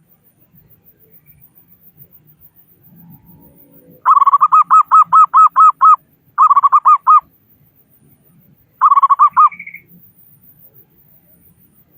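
Zebra dove (perkutut) calling loudly in three runs of quick repeated cooing notes, about four or five a second. The last run ends on a brief higher note.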